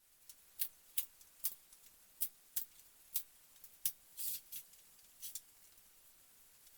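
Sharp, irregular clicks and taps, roughly two a second, with a brief rustle about four seconds in.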